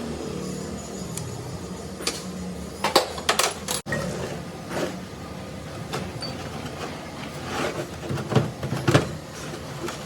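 Metal tools and parts clinking and knocking together in irregular sharp strikes, clustered about three seconds in and again near the end, over a steady low background hum.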